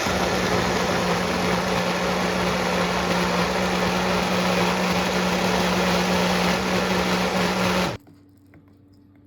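A small electric motor appliance running steadily with a hum, switched off abruptly about eight seconds in.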